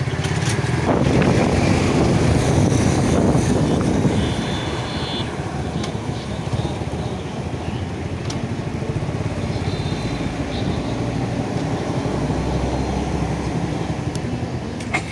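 Suzuki Gixxer single-cylinder motorcycle engine running while riding, with a louder rush of noise in the first few seconds.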